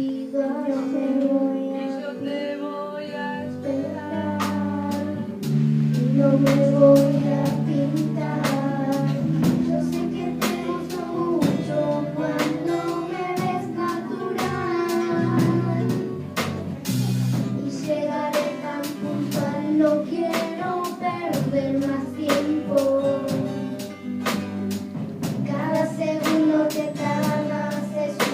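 A song sung by children's voices over instrumental accompaniment with a steady percussive beat.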